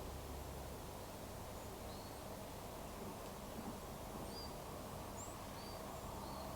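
Outdoor ambience: a steady low background noise with several faint, short, high bird chirps scattered through it.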